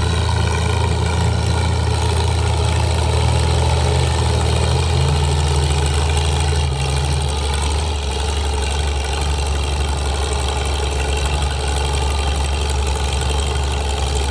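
Antique tractor engine running steadily at low speed, its tone shifting and dropping slightly in level about seven seconds in.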